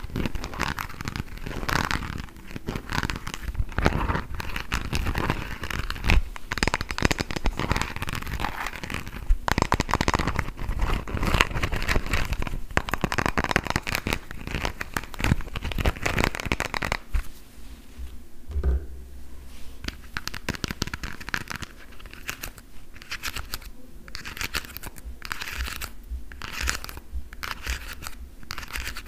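Tapping and scratching on plastic food items for ASMR: fast, dense tapping for the first half, then slower, separate taps.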